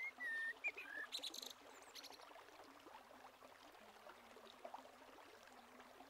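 Faint birdsong: a few whistled gliding notes, then a quick run of high chirps in the first second and a half, over faint outdoor ambience.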